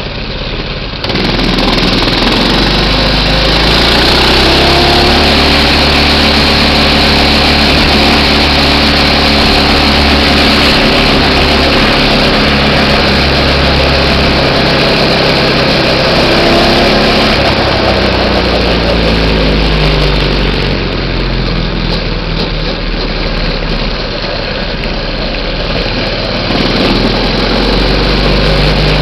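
A minibike's small engine running. Its revs rise after a few seconds, hold steady for a long stretch, drop off, then climb again near the end.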